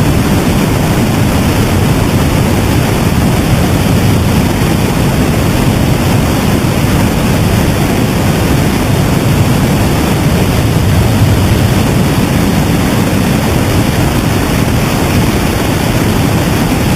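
Loud, steady rushing noise, heaviest in the low end, with no beat, tone or change in level.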